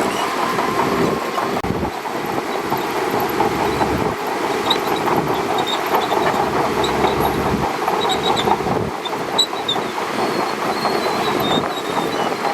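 Shantui DH17C2 crawler bulldozer at work: its engine runs steadily while its steel tracks clank and squeak continuously, with short high squeals scattered throughout.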